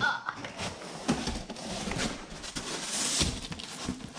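Flattened cardboard boxes being handled and laid out. There are scattered knocks and taps, and a short scraping rustle about three seconds in.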